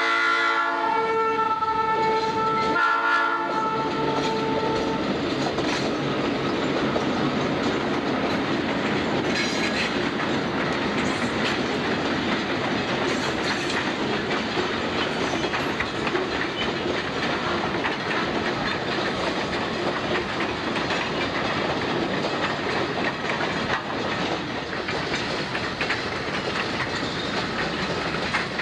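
Diesel locomotive horn sounding a multi-note chord that stops about five seconds in, then an F-unit-hauled freight train rolling by with steady rumbling wheel noise and clickety-clack over the rail joints.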